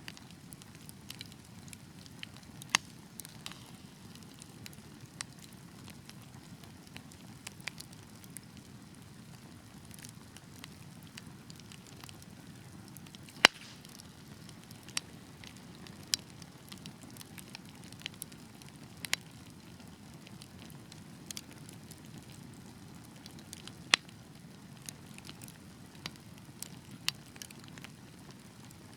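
Wood fire burning steadily with a low rumble, crackling and popping at irregular intervals; the sharpest pops come about halfway through and again near the end.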